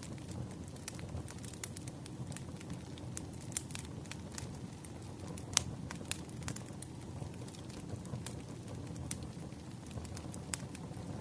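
Campfire burning: a steady low rumble of flames with irregular sharp crackles and pops of burning wood, one louder pop about halfway through.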